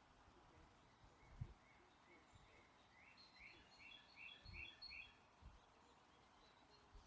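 Faint birdsong over a soft hiss: scattered short chirps, then a bird repeats one short note about six times in quick succession around the middle. A few brief low bumps of wind on the microphone.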